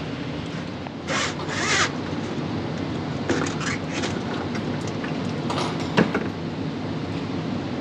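Steady low mechanical hum with a few short scraping and clicking sounds, as of tools or parts being handled.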